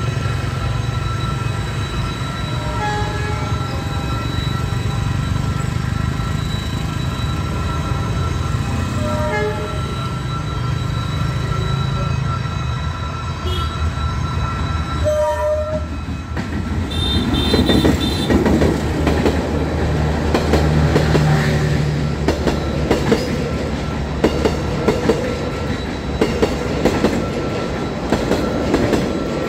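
A D19E diesel-electric locomotive hauling a passenger train approaches and then passes close by. Its engine's low rumble builds, and from just past halfway the coaches' wheels clatter over the rail joints. There is a short horn toot as the locomotive arrives.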